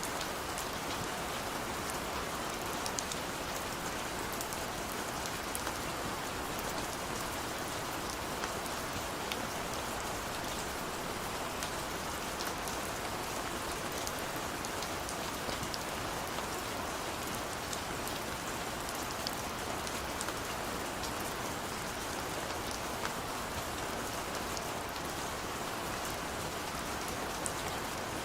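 Steady gentle rain falling on a window and nearby surfaces, an even hiss dotted with small scattered drop ticks.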